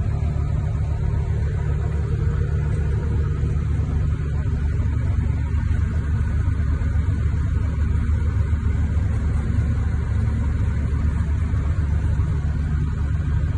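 Tractor engine running steadily with a deep, even rumble.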